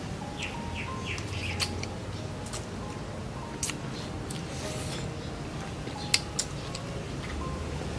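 Close-up eating sounds: crisp bites and crunchy chewing of a firm fruit, with wet mouth smacks and sharp clicks, the loudest a couple of crunches about six seconds in.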